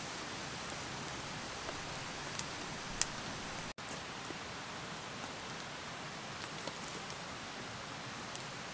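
Steady hiss of rain falling, with a few sharp ticks, the loudest about three seconds in. The sound drops out for an instant just before four seconds in.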